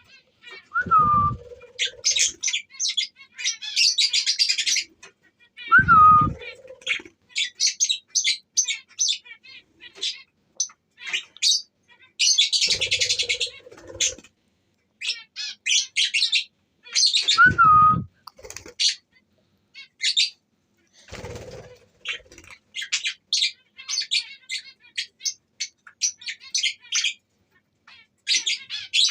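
Budgerigars chattering: rapid, high chirps and warbles in quick runs. About five times, at intervals of several seconds, a lower, louder sound with a short falling tone breaks in.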